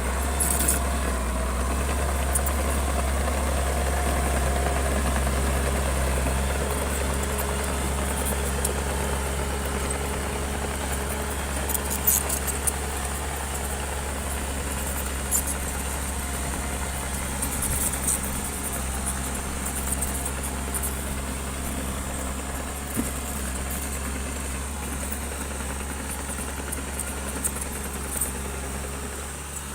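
Bulldozer's heavy diesel engine running with a steady low drone that eases off slightly over the stretch, with sharp clicks now and then.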